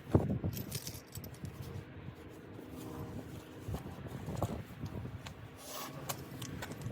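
A sharp knock just after the start, then scattered clicks and scraping, the sound of small objects being handled.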